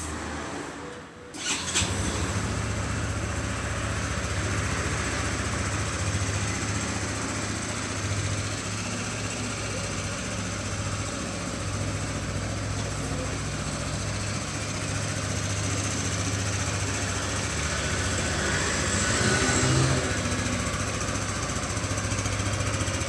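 Yamaha Majesty S scooter's 155 cc single-cylinder four-stroke engine being started with the electric starter, catching about a second and a half in and settling into a steady idle. It swells briefly once near the end.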